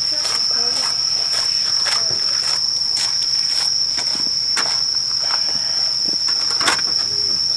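Insects chirring in a steady, unbroken high-pitched drone, with irregular clicks over it.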